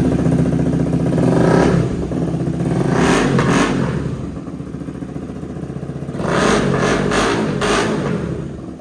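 KTM Duke 250's single-cylinder engine through a loud aftermarket slip-on exhaust, idling and revved up several times, the revs rising and dropping back to idle between blips.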